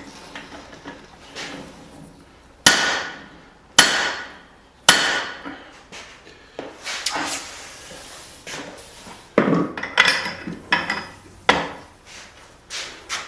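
Hand hammer blows driving a punch through a hot steel hammerhead to open the eye. It starts with three heavy strikes about a second apart, each ringing briefly, then a string of lighter, quicker blows.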